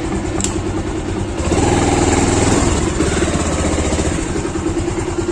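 Motorcycle engine running while riding, louder about a second and a half in, as if revving, then easing back after about three seconds.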